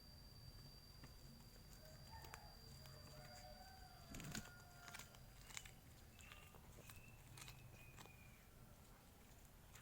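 Near silence: faint short chicken calls, with a few small clicks scattered through.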